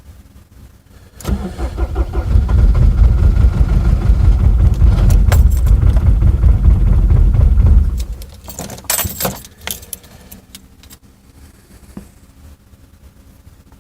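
Older Mercedes-Benz diesel engine cranked and started in severe cold (around −30 °C), running loud and low for about seven seconds before it drops away. A brief metallic jangle follows.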